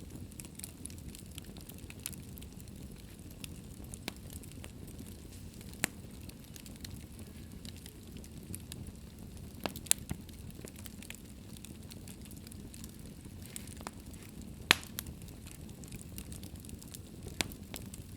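Wood fire burning in a fireplace: a low steady rumble of flames with scattered sharp crackles and pops, the loudest pops about ten seconds and fifteen seconds in.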